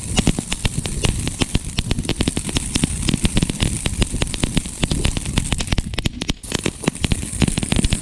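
Two firework fountains burning side by side: a crackling fountain's dense, rapid crackle over the steady hiss of the fountains' spray.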